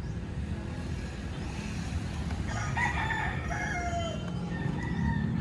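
A rooster crowing once, starting about halfway through, over a low steady rumble.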